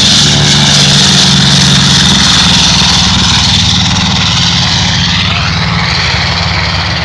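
North American B-25 Mitchell's two Wright R-2600 radial engines at full takeoff power on the takeoff roll: a loud, steady propeller drone that eases off slightly near the end.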